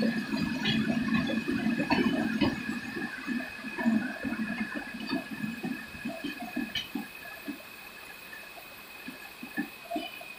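Wheels of a departing LHB passenger train knocking over rail joints as its rear luggage-brake-generator car passes close by, the knocks thinning and fading as the train pulls away. Heavy rain hisses underneath, with a steady high whine alongside.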